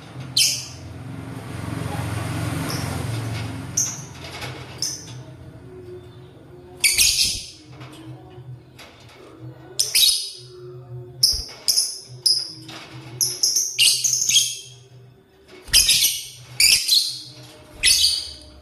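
Lovebirds giving short, shrill chirps in quick bursts, coming more often in the second half. A soft rushing noise runs for a couple of seconds near the start.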